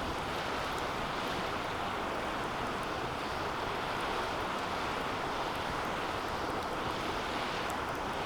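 Wood fire burning steadily in a DOD Mecha Moe Fire 2 fire pit, a constant rushing sound with a few faint crackles.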